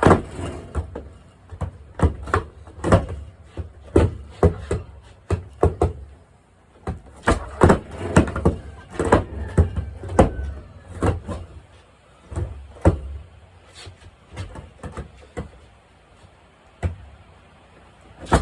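Skateboard deck and wheels knocking and clacking on the ground again and again, at irregular intervals, as tricks are tried in place, with short wheel rolls between the hits.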